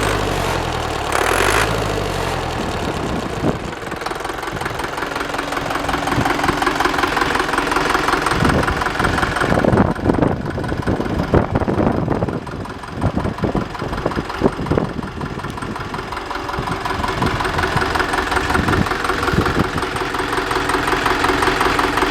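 Deutz F4L912 air-cooled four-cylinder diesel engine running, its speed changing in the first couple of seconds and then running on unevenly, with several loud knocks or clatters in the middle.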